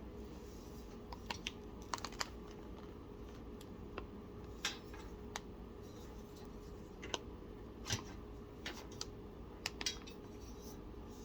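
Scattered light clicks and taps of PC case parts being handled and fitted, at irregular intervals over a faint steady hum.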